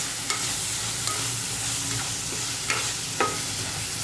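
Mutton liver masala sizzling in an aluminium pot while it is stirred with a metal spoon, with several sharp clinks and scrapes of the spoon against the pot.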